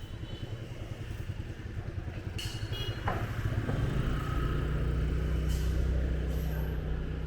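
Motorbike engine running amid street traffic. The low engine hum grows louder and steadier about three seconds in, and a short sharp sound with a brief falling tone comes just before.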